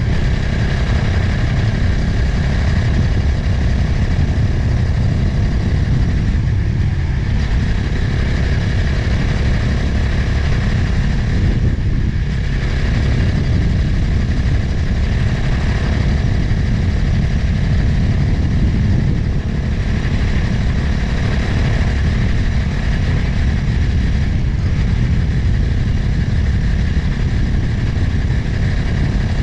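Motorcycle engine running steadily while riding along, with heavy wind rushing over the microphone. The level dips briefly a few times.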